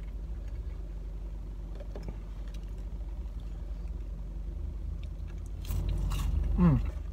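Steady low hum of a parked car's idling engine, with faint clicks of handling a sauce cup. About six seconds in, a bite into a crunchy chicken nugget and chewing, with a short falling 'mm' from the eater.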